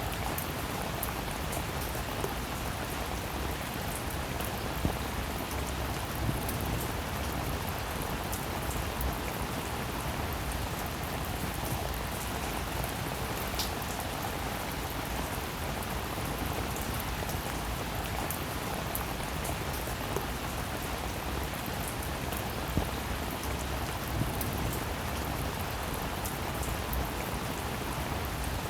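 Steady rainfall, an even hiss of drops with scattered louder single drop hits close by.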